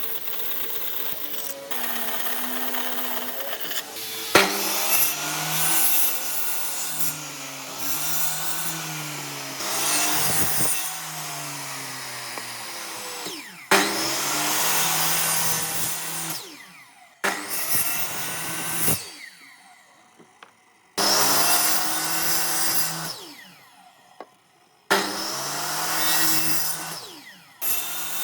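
Woodworking power tools cutting and sanding wood, heard in a run of short clips that change abruptly several times, the motor pitch shifting between them.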